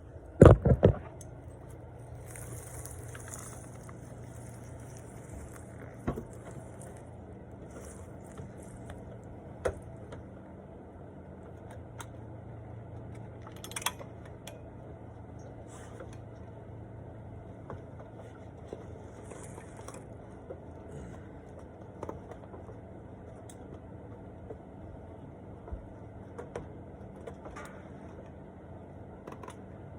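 Handling noises: a quick burst of loud knocks about half a second in, then scattered small clicks and short rustles over a faint steady low hum.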